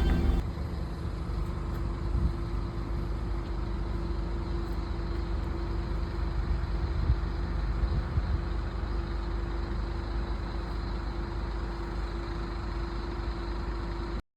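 Scania N230UD OmniCity bus's diesel engine running steadily, likely at idle, a low rumble with a constant hum and a few light knocks.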